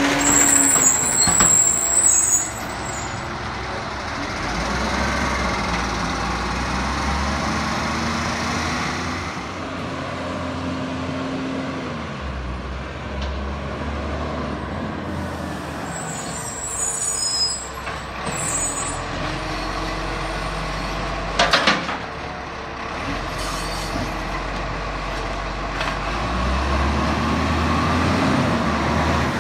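Recycling collection truck's diesel engine running and revving up and down, with short air-brake hisses near the start and again past the middle. A single sharp bang comes about two-thirds of the way through.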